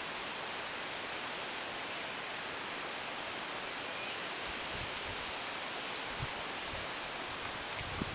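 Steady, even hiss, with a few faint low thuds in the second half.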